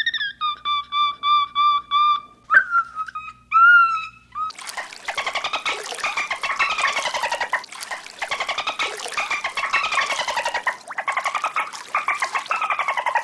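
Bird calls in two parts: first a quick run of short, even whistled notes, then a few gliding notes, then from about four seconds in a long, fast, rasping warble that swings up and down in pitch.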